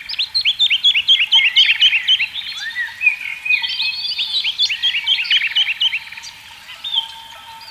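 Several songbirds singing at once, a dense chorus of quick chirps and rapid buzzy trills, with a thin steady tone that starts about a second before the end.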